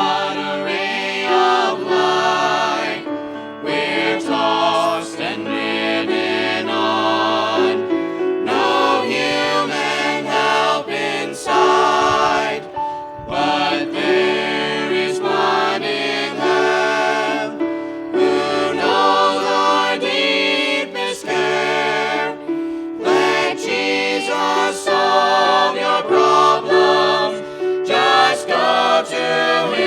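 Several voices singing a gospel song together in harmony, in held phrases of a few seconds each with short pauses between them.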